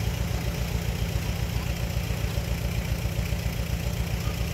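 Heavy-machinery diesel engine running steadily at an even speed, with a fast, regular low throb.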